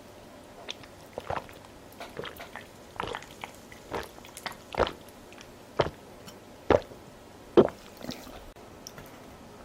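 Close-miked chewing of food with the mouth: wet, squishy mouth sounds broken by short sharp smacks about once a second, the loudest two a little past the middle.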